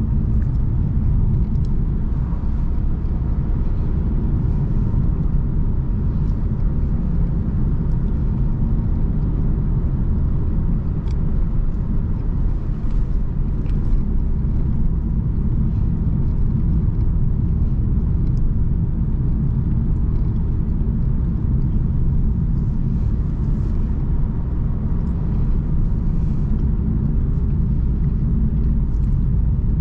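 Car driving along at a steady pace: an even, low rumble of engine and tyre noise with no change in speed or pitch, and a few faint ticks.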